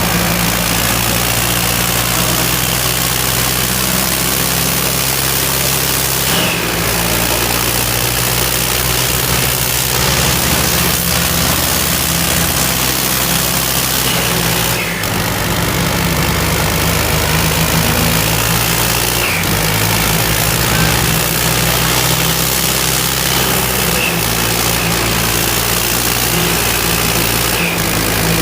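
Diesel tractor engine running steadily at a loud level, its pitch shifting a few times as the revs change.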